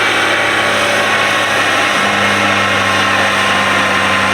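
Diesel pickup truck engine running with a loud, steady drone; its pitch steps down slightly about two seconds in.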